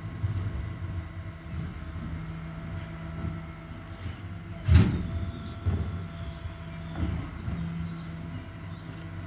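Garbage truck's engine running steadily during collection, with a loud bang about halfway through and a few lighter knocks after it.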